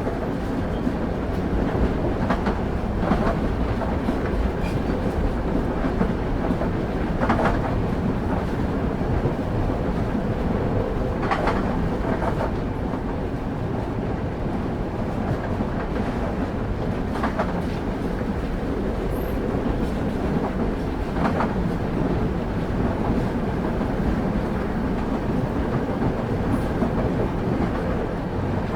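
Railway carriage wheels running over the track, heard from on board the moving train: a steady low rumble with sharp clicks of the wheels over rail joints every few seconds, some coming in pairs.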